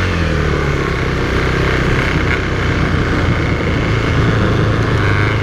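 KTM 390 Duke's single-cylinder engine running under way. Its pitch drops over the first half second, then holds steady.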